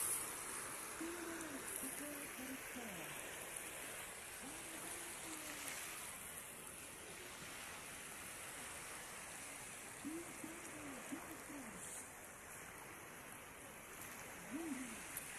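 Steady rushing wash of shallow sea water on the shore at low tide, with faint distant voices now and then.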